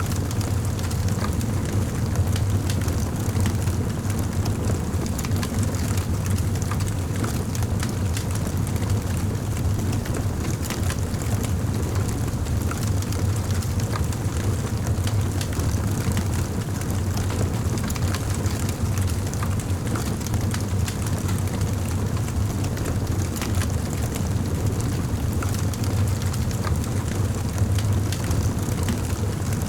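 Wood fire crackling: scattered sharp pops and snaps over a steady low rumble of the flames.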